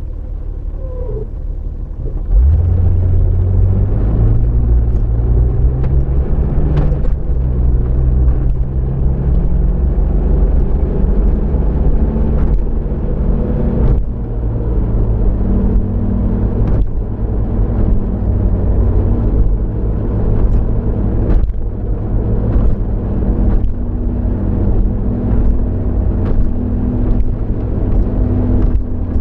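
Car driving: steady low engine and road rumble with a changing engine pitch. It gets louder about two seconds in, and there are scattered sharp clicks.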